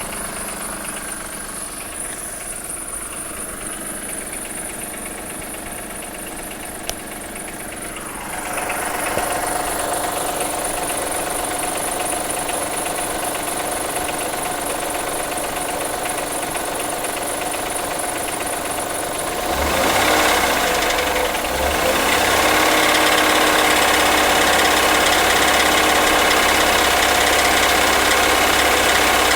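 2003 Acura MDX's 3.5-litre V6 running with a knock, which the dealership took for a bad wrist pin or rod bearing. The engine gets louder about a third of the way in and again about two-thirds through, with a few low thumps at that second change.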